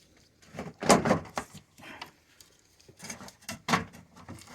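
A series of knocks and clunks of metal car parts being handled and set down: the loosened AC condenser and radiator being shifted. The loudest knocks come about a second in and again around three to four seconds.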